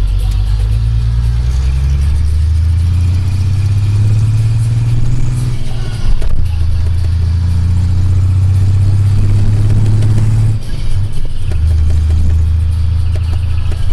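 Hino Space Ranger truck's diesel engine with twin mufflers, heard from inside the cab, pulling up through the gears. The low engine note climbs, breaks off at a gear change about six seconds in, and again with a short dip just before eleven seconds, then picks up at a lower pitch.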